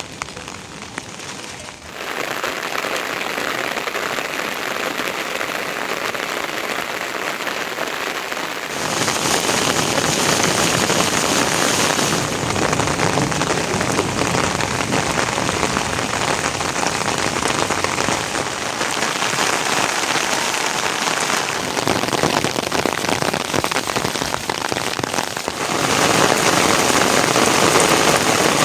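Steady rainfall pattering on surfaces, its loudness changing abruptly several times, heaviest near the end.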